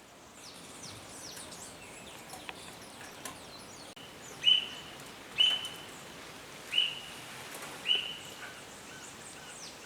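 A bird giving four short, high calls about a second apart, starting about halfway through, over faint scattered chirping of other birds.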